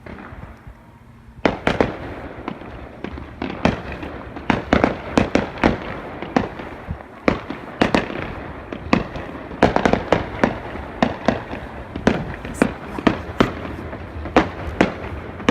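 Fireworks going off: a rapid, irregular run of sharp bangs, a few each second, beginning about a second and a half in.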